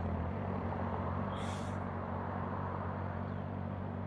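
Honda CB650R's inline-four engine running at low, steady revs, with a short hiss high in pitch about a second and a half in.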